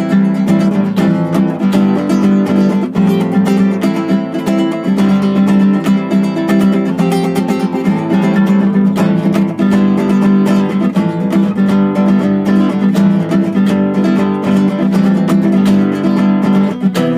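Music: an acoustic guitar strummed steadily, chord after chord.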